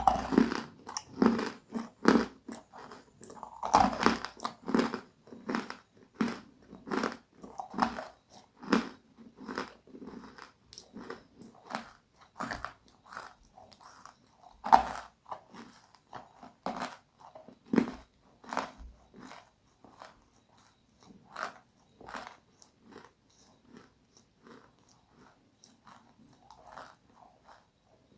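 Close-miked chewing of crispy, crunchy food: loud bite-and-chew crunches at about two a second, growing sparser and quieter over the last several seconds.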